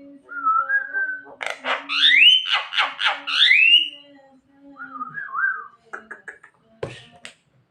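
Javan myna calling: a short whistle, then a loud run of rising whistled notes mixed with rapid clicks, a brief warbled whistle about five seconds in, and a few clicks near the end, over a steady low hum.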